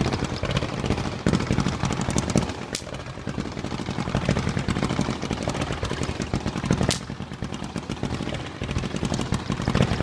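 Fireworks going off in a display: rapid crackling and popping, with two sharp bangs about three and seven seconds in.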